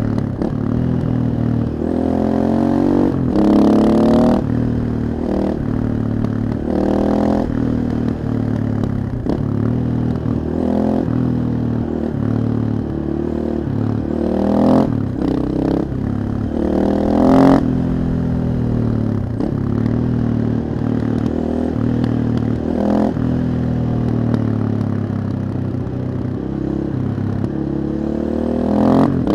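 KTM 640 supermoto's single-cylinder four-stroke engine through an Akrapovic exhaust, revving up and dropping back again and again as the bike accelerates and shifts gear. Several short, louder bursts of throttle stand out.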